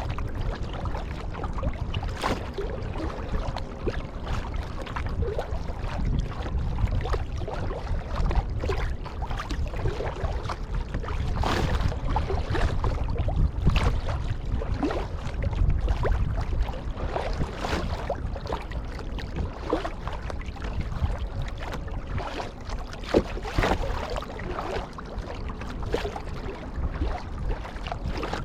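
Kayak paddle strokes: the blades dip and splash in the water every second or two over a steady low rumble.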